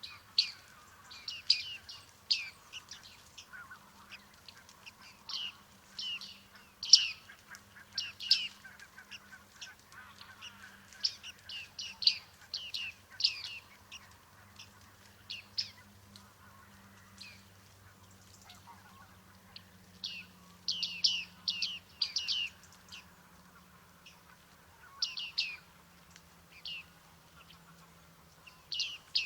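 Bearded reedlings calling: short, high, nasal call notes given in quick clusters of several at a time, with a few brief lulls.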